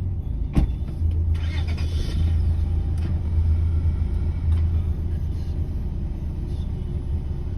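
Mercedes-Benz car driving slowly, a steady low engine and road rumble heard from inside the cabin, with a single sharp click about half a second in.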